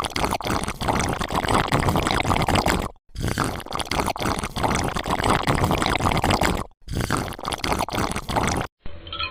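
Sand pouring and shifting in a steady gritty rush, broken by short abrupt gaps about three seconds in and again a little past six seconds. A different, muffled sound takes over in the last moment.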